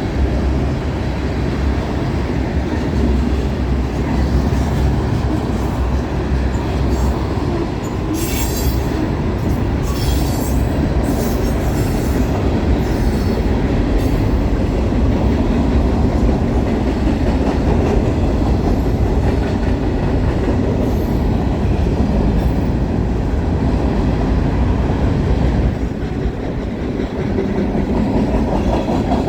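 Freight cars of a CN train rolling past at close range: a steady rumble of wheels on rail, with several short bursts of high-pitched wheel squeal about a third of the way in.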